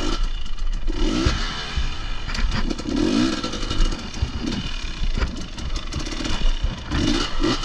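Off-road motorcycle engine revving in repeated bursts, about four over several seconds, with sharp knocks and clatter from the bike on rocks.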